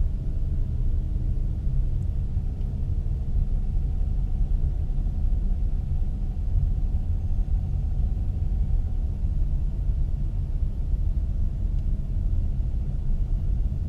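Car driving at low speed: a steady low rumble of engine and road noise, with a faint engine hum that drifts slowly in pitch.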